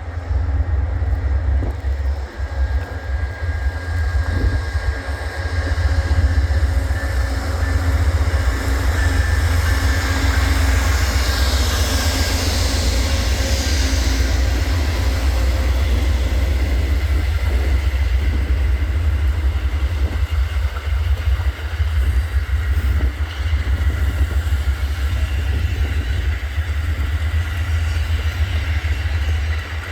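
Amtrak passenger train with its diesel locomotive running, a heavy steady low rumble that grows louder about six seconds in, with a brief hissing swell near the middle.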